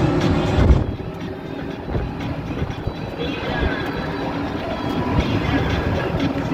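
Steady running noise of a vehicle, with a drop in level about a second in.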